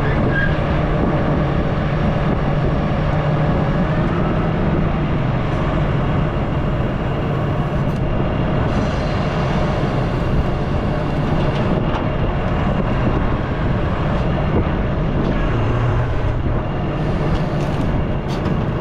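Excavator's diesel engine running steadily at working speed, with a few faint knocks.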